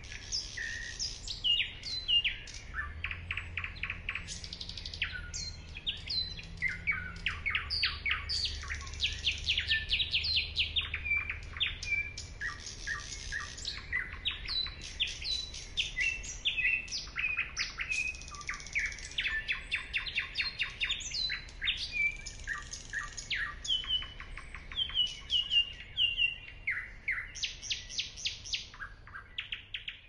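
Songbirds chirping and trilling: many quick repeated notes and short trills overlapping with hardly a pause.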